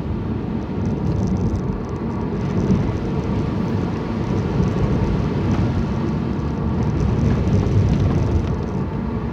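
Steady rumble of a car's engine and tyres heard from inside the moving car on a wet road.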